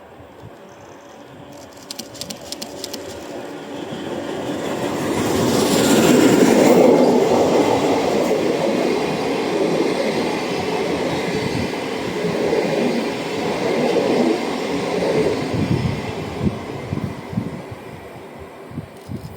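JNR C61 steam locomotive hauling six old-type passenger coaches through a station at speed. The noise builds to its loudest about six seconds in and holds while the coaches roll past, with wheels clattering over rail joints, then fades as the train moves away.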